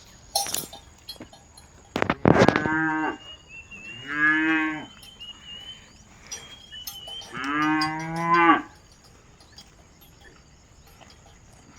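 Cows mooing: three long moos, each about a second, about two, four and seven and a half seconds in.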